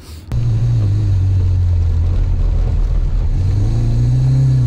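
Honda Civic's engine heard from inside the cabin, running hard under load. The sound cuts in suddenly just after the start, and the revs dip, then climb again near the end.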